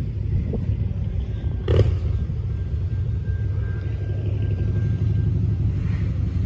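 Heavy, steady rumble of a train rolling past on the rails, with one sharp clank about two seconds in.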